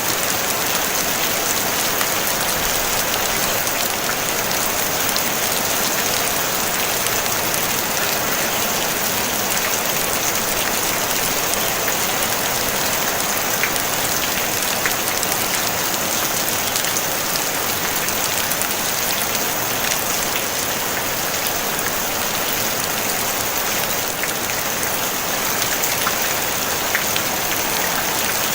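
Steady rain falling on a tin roof: an even, unbroken hiss with scattered small ticks of individual drops, and no thunder.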